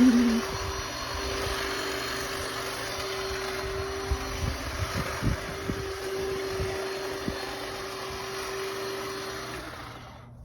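A yard power tool from a new string trimmer and leaf blower combo running at a constant speed: a steady whine over a rushing hiss. It cuts off near the end.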